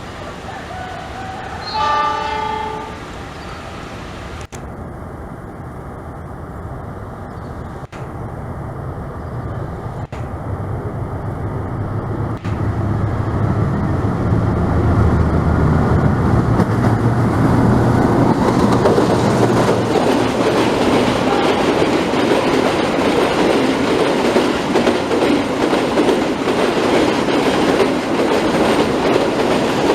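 A train horn sounds once, briefly, about two seconds in. Then a train approaches, its low engine rumble building. From about twenty seconds its cars pass close by with a loud, steady rushing noise of wheels on rails.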